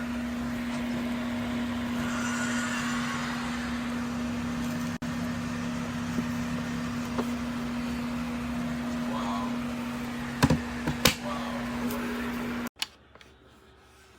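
Thermoelectric mini fridge running: its cooling fan makes a steady whir over a constant hum. Two sharp knocks come near the end, then the sound cuts off abruptly.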